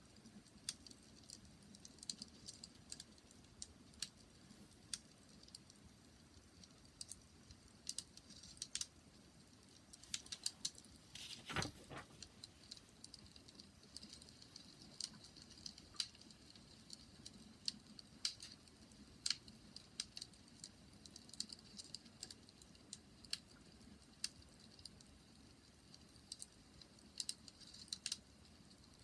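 Wood fire crackling: irregular sharp pops and snaps, quiet overall, with one louder pop about halfway through.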